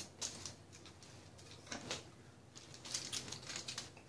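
Eating sounds close to the microphone: crisp clicking and crackling from chewing and handling food, in three bursts, the longest near the end.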